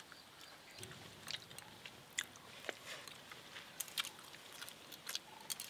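Faint chewing and mouth sounds of people eating rice and fish curry by hand: a scatter of soft, irregular clicks and smacks.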